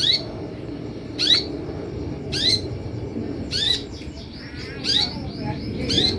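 Sunbird (kolibri) calls: sharp, high chirps sweeping in pitch about once a second, with a quick twittering run in the middle. This is a lure and tutor call that birdkeepers play to provoke a kolibri ninja to answer and sing. A steady low background hum runs underneath.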